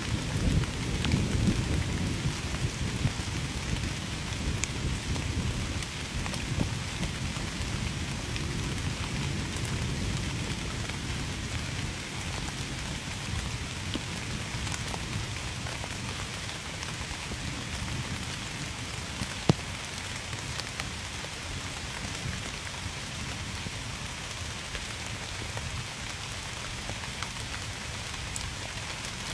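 Steady heavy rain falling, with a low rumble of distant thunder that is strongest over the first few seconds and slowly dies away. A single sharp click sounds about two-thirds of the way through.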